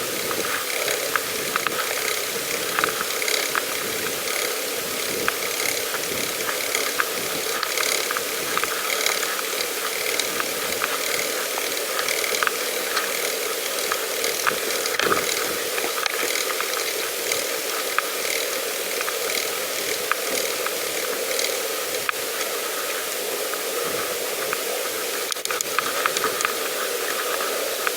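Pedal bicycle rattling and clicking as it is ridden over a rough path: a dense run of small irregular ticks and knocks over steady rolling noise.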